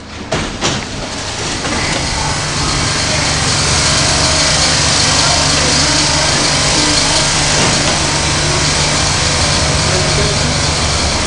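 R40M/R42 subway train pulling out of the station. There are a couple of sharp clicks in the first second, then a steady loud running noise of motors and wheels on the rails, with a strong hiss and a low hum.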